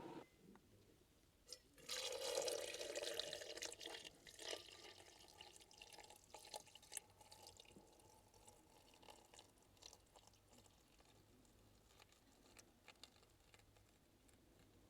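Hot water being poured over coffee bags in a cup for about two seconds, followed by scattered faint drips and small clicks.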